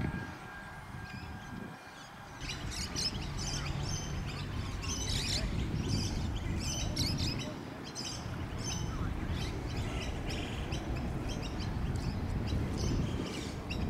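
Small birds chirping and twittering busily from about two seconds in, over a steady low rumble.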